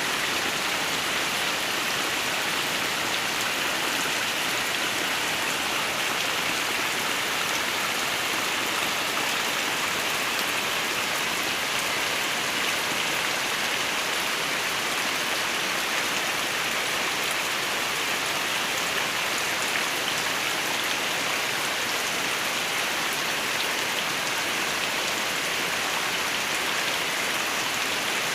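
Steady heavy rain falling and pattering on surfaces, an even hiss that keeps up without a break.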